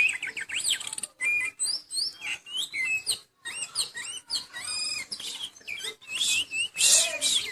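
Oriental magpie-robin (kacer), in moult, singing a fast, varied song of short whistled notes and chirps that glide up and down, with brief gaps between phrases and a louder passage near the end.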